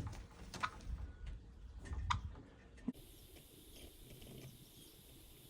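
Rustling with scattered sharp clicks close to the microphone, then an abrupt change about three seconds in to a faint steady hiss.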